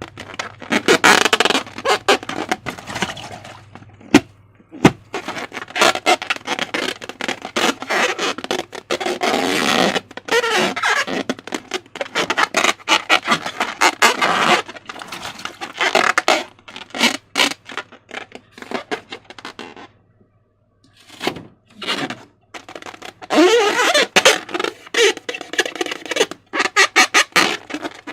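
Slime being squished and stretched by hand: rapid, irregular squelching, crackling and popping, with occasional short squeaks and a brief pause about two-thirds of the way through.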